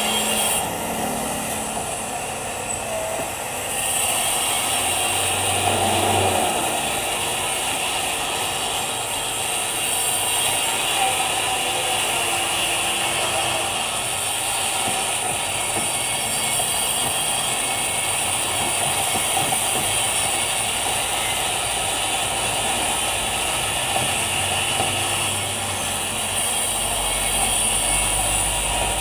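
Manual metal lathe running with a steady mechanical noise.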